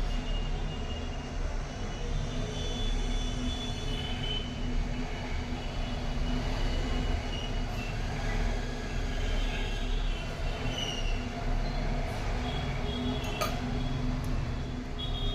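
Steady low rumble of background noise with a faint hum and thin, wavering high whistling tones, and a single sharp click about 13 seconds in.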